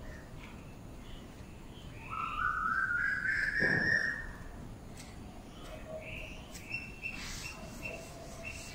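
Birdsong: one long, rising whistled call about two seconds in, followed by a few short high chirps.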